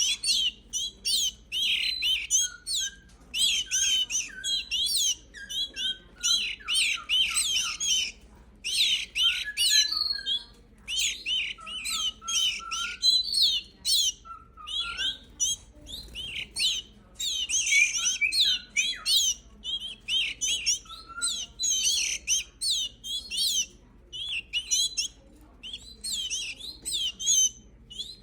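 Five-week-old canaries chirping rapidly in repeated bursts of about a second, with short gaps between, and a few lower, softer whistled notes mixed in.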